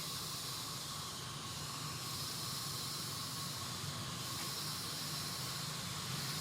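Steady background hiss with a faint low hum underneath.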